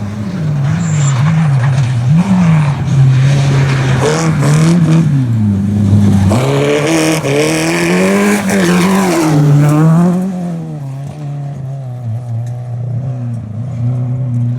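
Rally car engine at full throttle, its pitch climbing and dropping repeatedly through gear changes as it passes close by, then fading away after about ten seconds.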